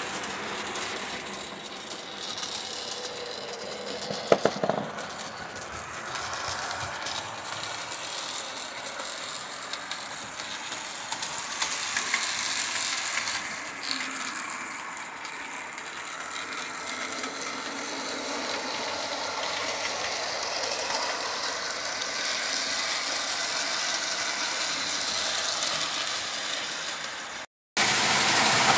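Vintage Scale Craft O scale New York Central Hudson model steam locomotive running on track with a train: a steady whirring clatter of its gears and wheels, with scattered clicks. It cuts out briefly near the end and comes back louder.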